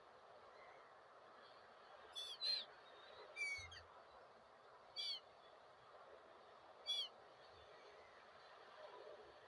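Gulls calling: a few short, high calls with gaps between them, a pair about two seconds in, then single calls at about three and a half, five and seven seconds, over a steady faint hiss.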